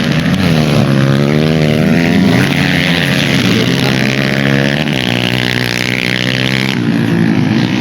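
Motorcycle engine revving, its pitch rising and falling several times as the throttle is blipped.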